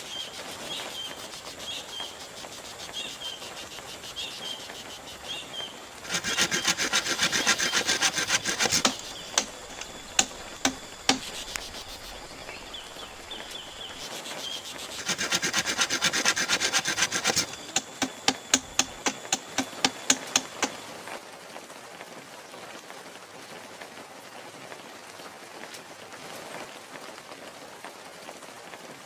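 Bamboo being cut or worked by hand: two bouts of quick rasping strokes, each a few seconds long, each followed by a string of sharp taps, with rain falling steadily behind.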